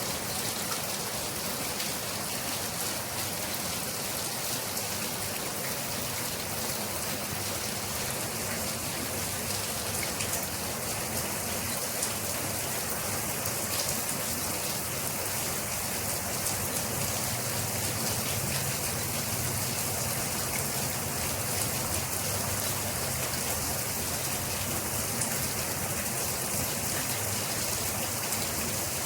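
Steady rain falling, a dense, even hiss of drops with faint individual drop ticks.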